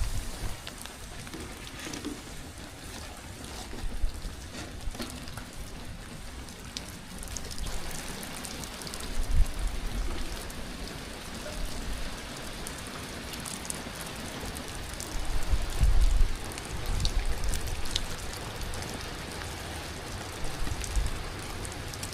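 Rain falling steadily, a fine hiss with scattered drips ticking on surfaces. There are a few louder low thumps, the strongest about nine and sixteen seconds in.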